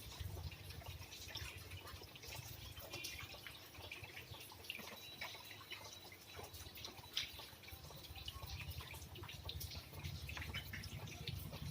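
Rain dripping: many small drops tapping at uneven times, over a low rumble.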